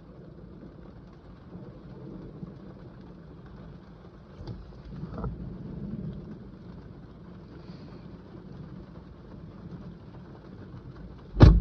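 Low rumble of distant thunder that swells about five seconds in and fades, with a single sharp thump near the end.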